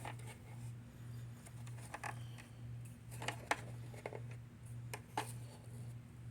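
Scattered small clicks and scrapes of hands working on a vacuum cleaner's brush roller, pulling hair off it, over a steady low hum.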